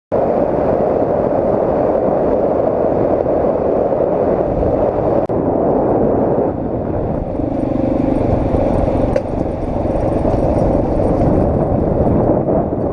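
Motorcycle on the move: the engine runs under a steady, dense rush of riding noise, and its tone comes through more clearly for a couple of seconds past the middle.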